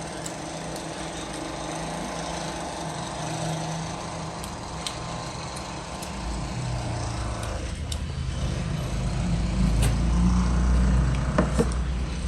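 Road-construction machinery engine running outside, a steady low rumble that grows louder about halfway through.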